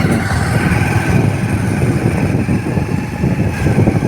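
Motorcycle engine running on the move, with a heavy, uneven low rumble of wind on the microphone.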